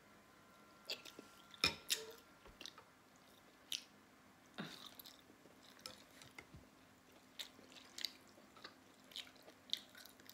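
Close-miked chewing and mouth sounds of someone eating noodle soup with pork and shrimp: irregular wet smacks and sharp clicks, the loudest a couple about two seconds in.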